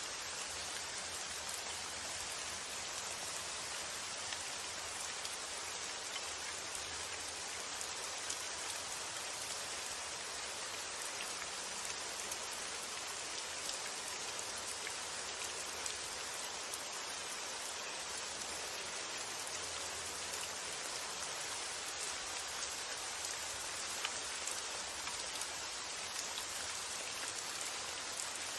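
Steady, even rain with scattered faint drop ticks.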